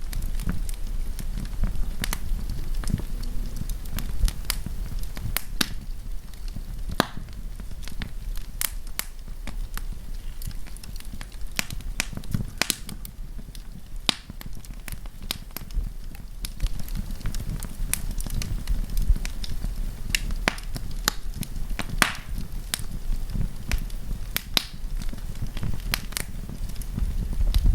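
Wood fire burning, with irregular sharp pops and crackles over a low rumble of flame.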